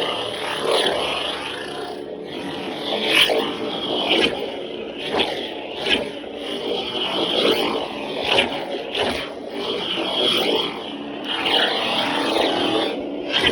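Lightsaber sound font playing its steady electric hum, with repeated swing swooshes that swell and fade every second or so, some ending in sharp hits.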